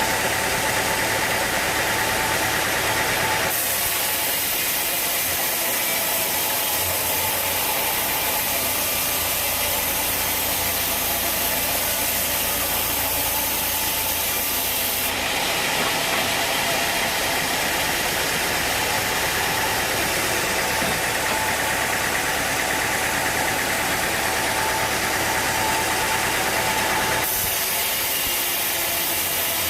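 Sawmill machinery running steadily: a constant engine drone with a hiss over it, the sound shifting abruptly a few times.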